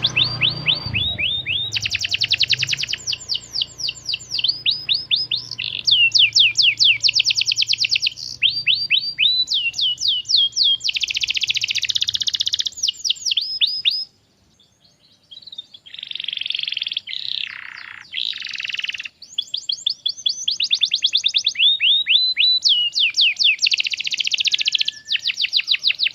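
Domestic canary singing a long song of fast trills, each phrase a rapid run of repeated chirping notes. There is a short break about halfway through before the trills start again.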